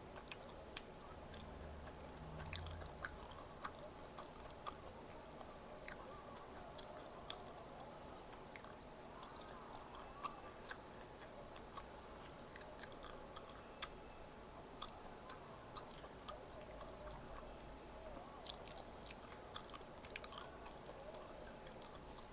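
A person chewing and biting food close to the microphone, with many short sharp clicks and small crunches scattered throughout.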